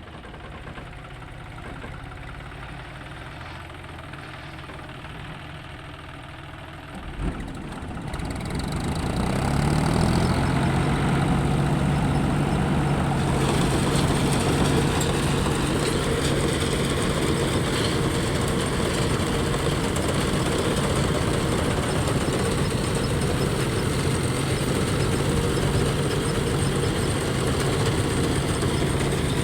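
Diesel engine of a John Deere tractor working a Dasmesh combine harvester, running slowly at first. About seven seconds in there is a short knock, and the engine speeds up over a couple of seconds to a steady, much louder working speed. It holds that speed from then on.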